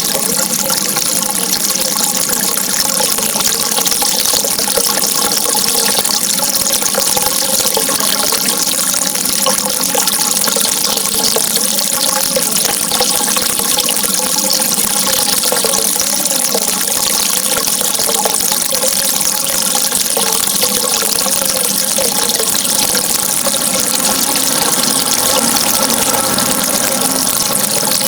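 Steady running water, a continuous even rush with a faint wavering gurgle underneath.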